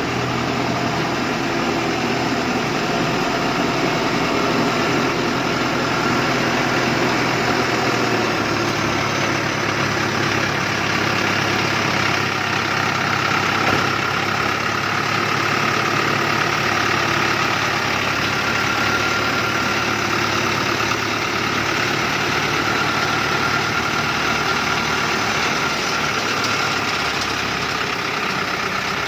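Dongfeng truck's diesel engine running steadily at low revs, with a steady high whine over the engine note; the engine note shifts slightly about eight seconds in.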